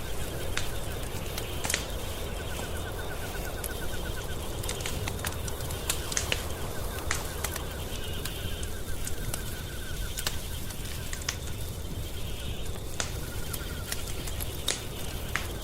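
Wood fire crackling in a fireplace, with irregular sharp pops over a low steady rumble. A faint, rapidly pulsing trill comes and goes in the background.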